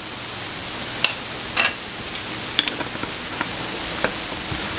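Butter and olive oil sizzling in a skillet: a steady sizzle that grows louder up to about a second in, with a few light clicks.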